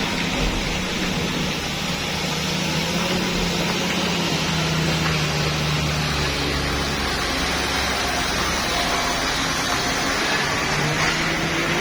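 Heavily loaded truck's diesel engine running with a steady low drone under a haze of road and traffic noise.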